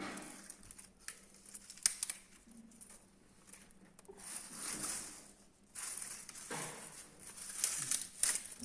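A newly lit fire in a fireplace, crackling and crinkling irregularly with a few sharp snaps as it starts to catch.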